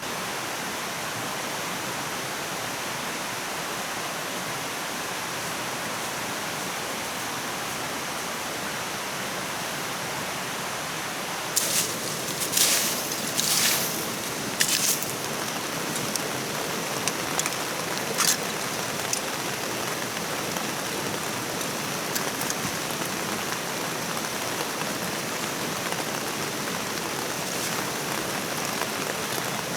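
Steady hiss of water. A few sharp clicks and rustles come about twelve to fifteen seconds in, and once more a few seconds later.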